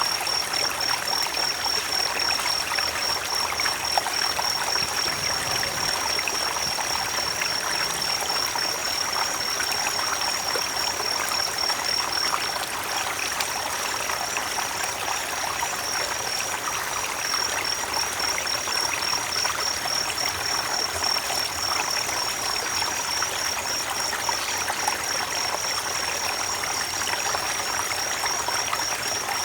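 Creek water running and trickling over stones in a steady, unbroken rush. A thin, steady, high-pitched trilling tone sits above the water throughout.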